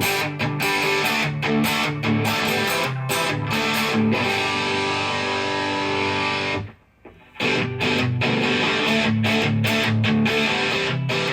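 Gretsch electric guitar played through its bridge pickup: picked and strummed chords with a chord left ringing midway, a brief stop about two-thirds of the way in, then more chords.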